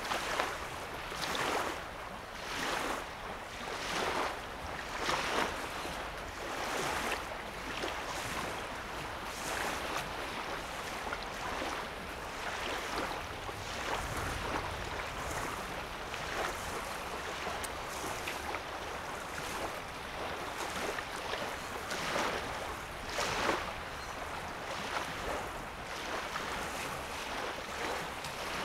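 Small lake waves lapping on a sandy shore, a soft wash every second or so.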